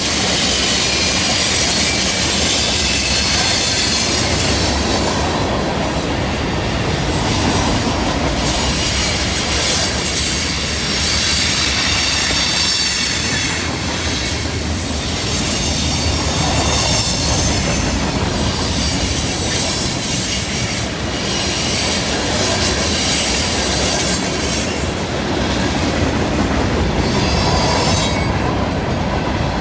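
Freight cars (tank cars and covered hoppers) rolling past on a curve with a steady rumble of wheels on rail. Wheel flanges squeal in high-pitched stretches that fade and return several times, from the wheels grinding against the rail through the curve.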